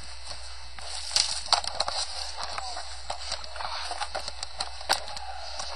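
Irregular crunching and crackling of footsteps through dry leaves and twigs on a woodland trail, over a steady hiss.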